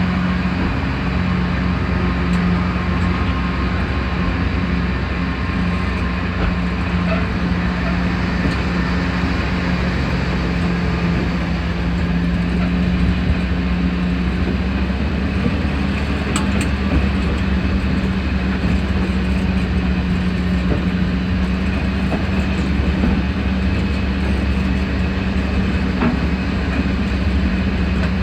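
Sentinel diesel shunting locomotive's Rolls-Royce C Range supercharged eight-cylinder diesel running steadily, a constant low engine drone with a few brief sharp clicks over it.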